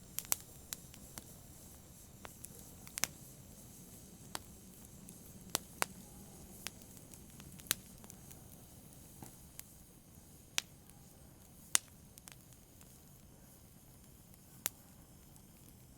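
Campfire burning with irregular sharp crackles and pops of the wood over a low, steady hiss of the flames.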